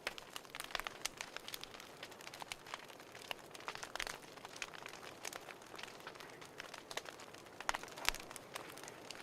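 Wood fire in a fireplace crackling: irregular sharp pops and snaps over a soft hiss, with a couple of louder pops near the end.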